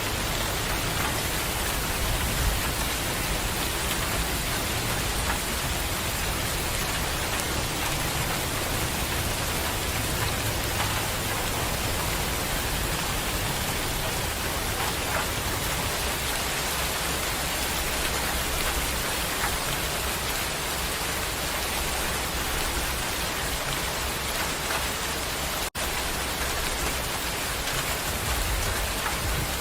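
Steady heavy rain, an even hiss of drops falling on surfaces, with a low rumble underneath through roughly the first half. About twenty-six seconds in the sound breaks off for a split second.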